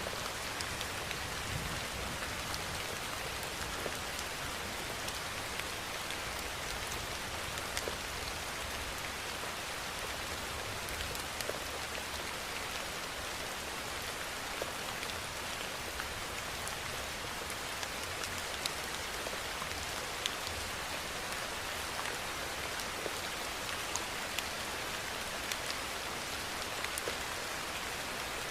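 Steady rainfall hissing, with scattered individual drops ticking on a surface.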